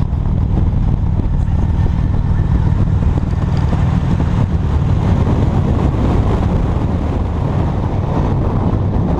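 Motorcycle engine running steadily while riding, heard from on the bike, with wind noise on the microphone.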